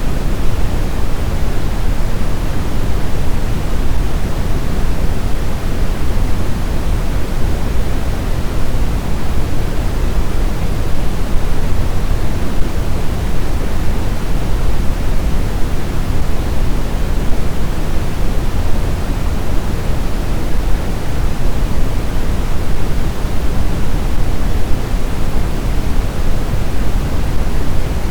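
Snowstorm wind blowing steadily, an even hiss strongest in the low end, without distinct gusts.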